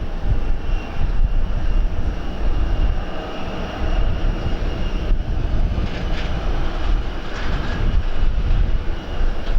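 Aircraft engines running with a steady high whine that fades about halfway through, under a heavy low rumble of wind buffeting the microphone.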